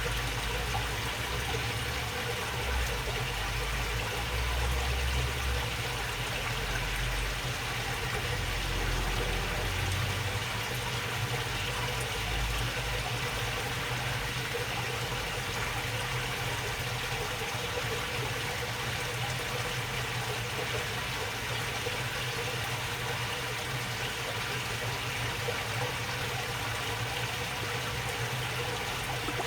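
Water babbling steadily along a narrow waterway. A low rumble runs under it for about the first ten seconds.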